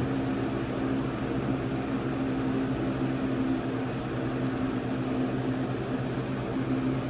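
Lasko Weather-Shield model 3720 box fan running steadily: an even rush of moving air over a constant hum.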